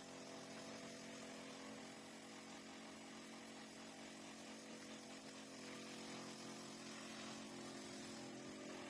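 A faint, steady motor hum with a hiss over it.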